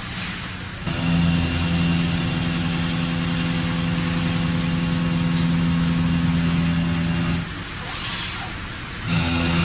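Machine motor running with a steady low hum that starts about a second in and cuts off about seven seconds in. There is a short hiss near 8 s, then the hum starts again near the end.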